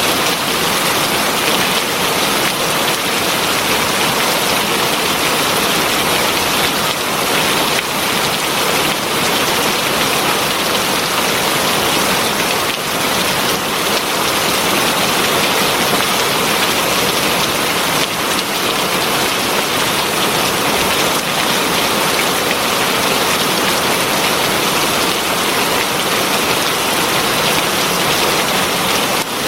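Heavy rain falling steadily: a dense, even hiss of drops on surfaces that keeps the same strength throughout.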